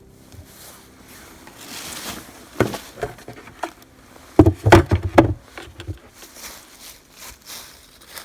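A series of knocks and thumps: a few single ones, then a loud quick cluster a little past halfway.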